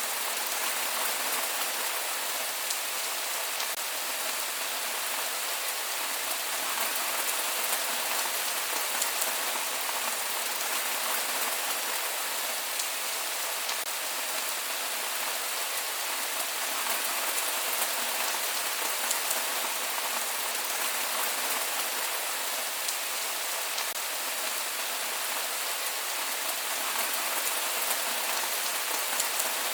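Steady rain falling, with many small drops pattering on surfaces and no thunder.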